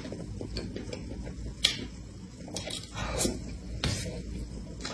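Close-up eating sounds: wet chewing of a mouthful of soft cream sponge cake, broken by several short sharp clicks. Near the end a metal spoon scoops into the cake on its board.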